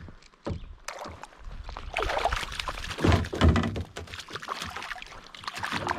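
Knocks and thunks against a kayak hull with water splashing as a hooked fish is brought aboard in a landing net. The handling gets busier and louder about two seconds in.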